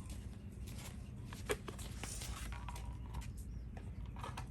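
Dogs eating: irregular small clicks and crunches of chewing and lapping, over a steady low rumble.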